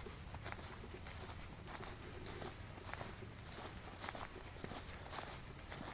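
Steady high-pitched chorus of insects, with faint irregular ticks and rustles beneath it.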